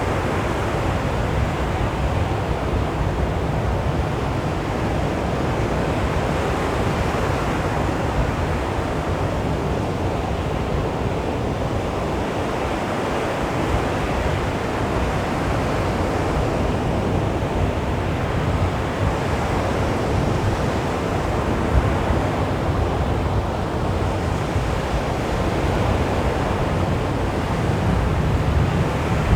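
Calm sea waves washing onto a beach in a steady surf wash, rising and falling gently with each wave, with some wind on the microphone.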